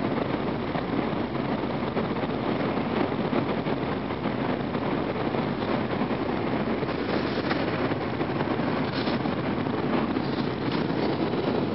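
Steady rushing running noise of an N700 series Shinkansen train, heard inside the passenger cabin, with a few faint taps in the second half.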